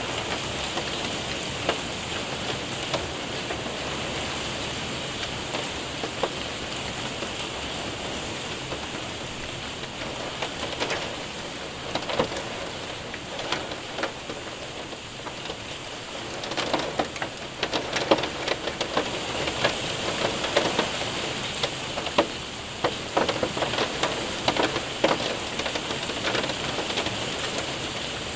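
Hail and rain pelting a window and roof: a steady hiss of rain with sharp, irregular ticks of hailstones that come thicker and louder from about halfway through.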